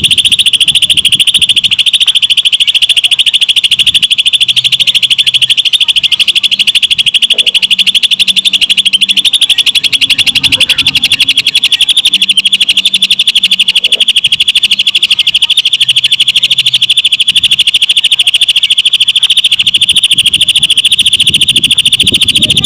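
Cucak ijo (green leafbird) singing one long, unbroken, very fast trill in lovebird style, a steady high rapid-fire chatter with no pause.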